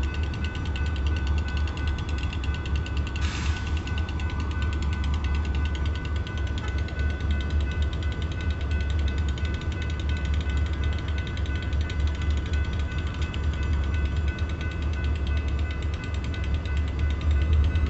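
Grade crossing bell ringing steadily in rapid, even strokes over a low engine idle. There is a short hiss about three seconds in.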